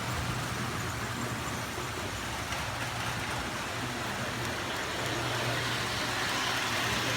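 Model trains running on a show layout: a steady whirring rumble with a low hum underneath.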